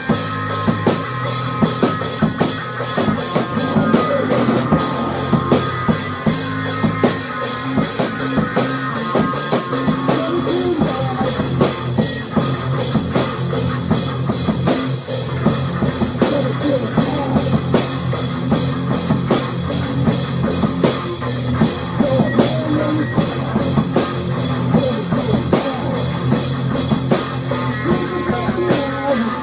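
Rock music with a full drum kit playing a fast, steady beat over bass and guitar.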